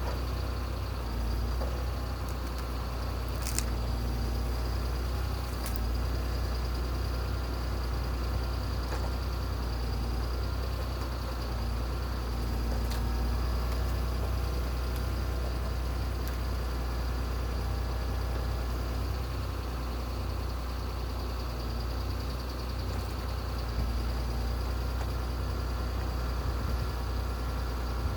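An engine running steadily with a low, even rumble, with a couple of faint clicks about four and six seconds in.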